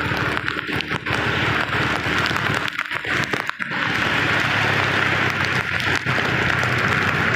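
Heavy rain pouring, with drops striking close to the microphone as a dense crackle over a steady hiss, and a steady low rumble beneath.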